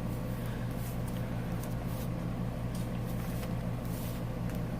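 Steady low electrical hum, with a few faint soft rustles and taps of paper as the journal's pages and tags are handled.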